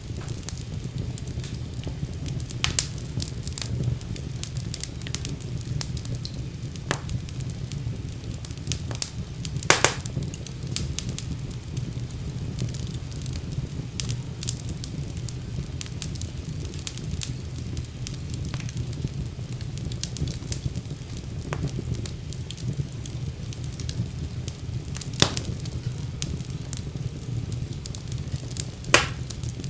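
Wood fire burning in a fireplace: a steady low rumble under frequent small crackles, with a few louder pops, the sharpest about ten seconds in, about twenty-five seconds in and near the end.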